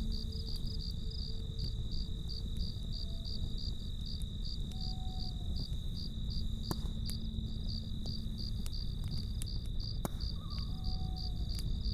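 Crickets chirping in an even, fast pulse of about three to four chirps a second, with a steady high trill beneath. A low rumble and a few sharp crackles from a campfire run under them.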